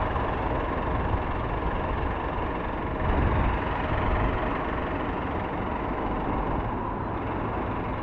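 Fire engine's diesel engine idling steadily, a continuous low rumble.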